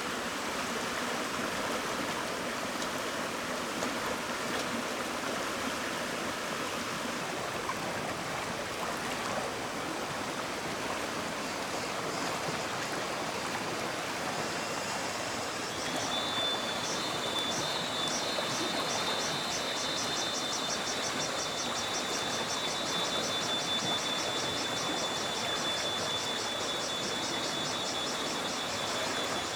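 Stream water rushing steadily. About halfway through, a high-pitched pulsing buzz starts and carries on over the water.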